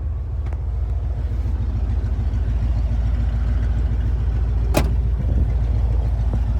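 Ford Bronco engine idling through a new exhaust with Flowmaster Delta Flow 50 series mufflers and its electric cutouts open, a loud, deep, evenly pulsing exhaust note. It grows louder over the first two seconds, then holds steady. A sharp click comes about five seconds in.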